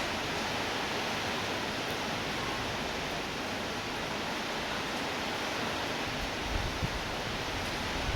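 Steady hiss of falling rain, even and unbroken. A low, gusty rumble joins it about six and a half seconds in.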